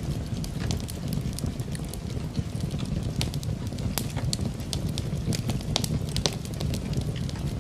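Wood fire in a fireplace crackling, with irregular sharp pops and snaps over a steady low rush that is the sound of rain and the burning fire.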